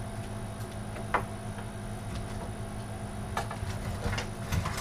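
A few light clicks and knocks from computer parts and cables being handled while searching through them, over a steady low electrical hum.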